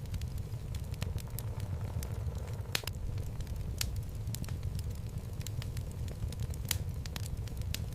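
Wood fire burning in a fireplace: a steady low rumble of the flames with irregular sharp crackles and pops from the burning logs, one louder pop about three seconds in.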